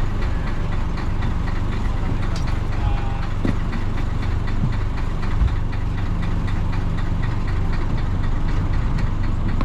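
Isuzu DA640 diesel engine of a 1966 Isuzu BXD30 bonnet bus idling steadily, with an even diesel clatter.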